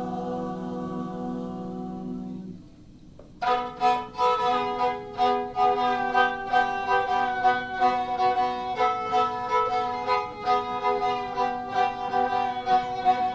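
A held a cappella vocal chord that fades out a couple of seconds in; then, after a short gap, a bowed kabak kemane takes up a melody over plucked mandolin and guitar strings.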